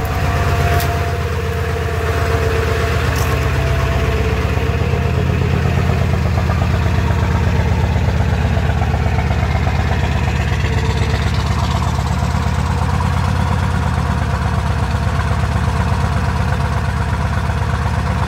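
Ford 7.3 L Powerstroke turbo-diesel V8 idling steadily just after a hard cold start at about 8 °F.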